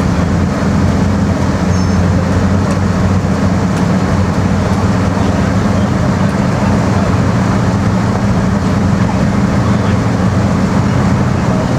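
Boat engines running steadily at low speed: a constant low rumble under a wash of noise.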